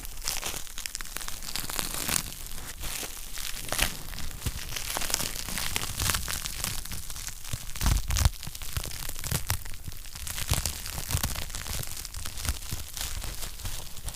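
Wood fire crackling in a fireplace: irregular sharp snaps and pops over a low steady hiss, with a louder pop and low thump about eight seconds in.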